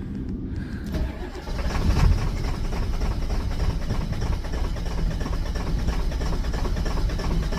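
Ford 7.3-litre Power Stroke V8 turbo-diesel started in extreme cold: it cranks briefly, catches about a second and a half in, and settles into a rough, clattering cold idle that sounds like a tractor.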